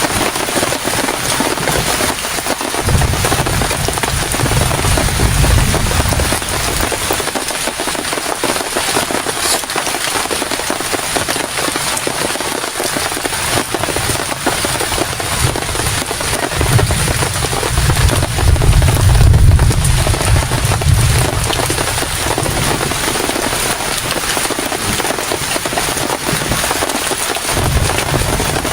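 Heavy rain falling steadily as a loud, dense hiss. A deep rumble of strong wind gusts comes in twice, for several seconds each (about 3 seconds in and about 17 seconds in), and again near the end.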